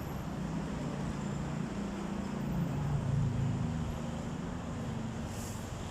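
A low engine-like hum over steady outdoor background noise, growing a little louder around the middle.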